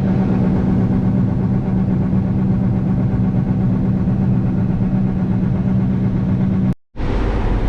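Combine harvester's diesel engine running steadily, a constant drone with a strong low hum. It cuts out abruptly about seven seconds in, and a lower, steady engine hum follows.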